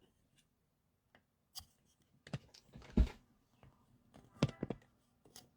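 Scattered clicks and knocks of a camera being handled and turned around on its mount, with one louder thump about three seconds in and a quick run of clicks a little later.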